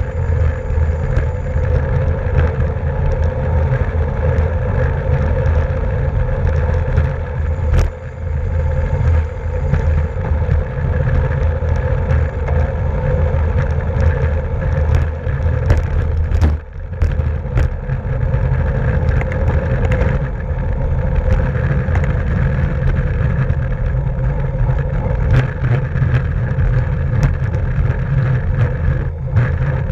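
Steady wind rush and road rumble from a racing bicycle moving at speed, with a few scattered clicks.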